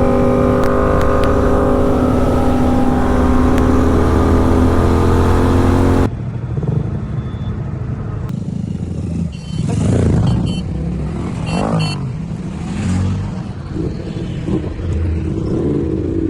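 Superbike engine with a full-system aftermarket exhaust, running steadily for about six seconds. After a sudden cut come several swells of revving that rise and fall.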